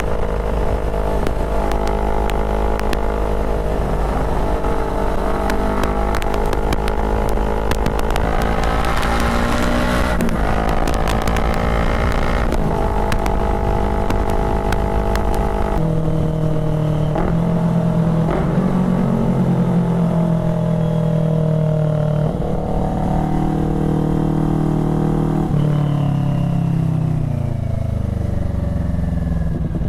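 CFMoto 400NK's parallel-twin engine through an SC Project replica exhaust, running on the move. The engine note holds steady and changes in steps, then falls away over the last few seconds as the bike slows. Wind buffets the microphone through the first half.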